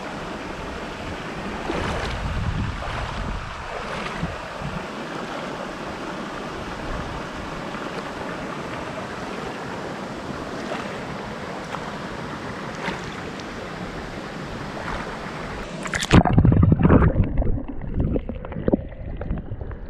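Steady rush of a forest creek and waterfall. About four seconds before the end it cuts to louder, duller rumbling and knocks.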